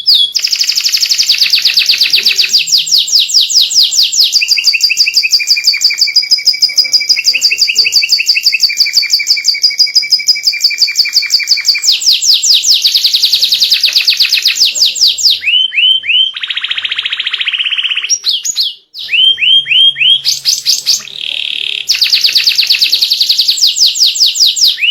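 White domestic canary singing a long, loud song of rapid trills, about ten notes a second, switching to a new rolling phrase every few seconds, with a brief break about three-quarters of the way through.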